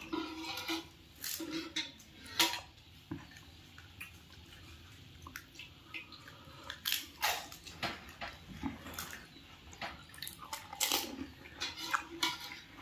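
A person eating pani puri: irregular crunches of the hollow fried puri shells and wet chewing of the water-filled mouthfuls.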